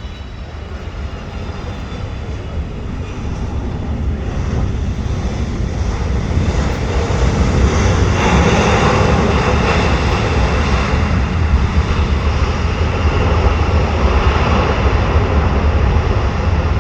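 Jet airliner's engines running, the noise growing steadily louder over the first half and then holding loud.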